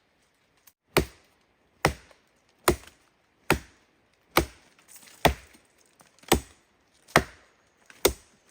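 Wood being chopped with a blade: a steady series of sharp blows, a little under a second apart.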